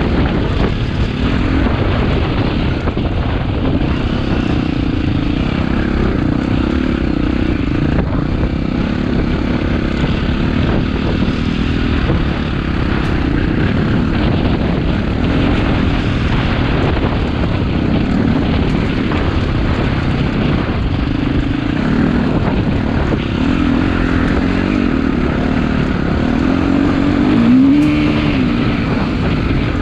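KTM EXC-F dirt bike's four-stroke single-cylinder engine running under way, its pitch wavering with the throttle. Near the end it revs up and drops back once.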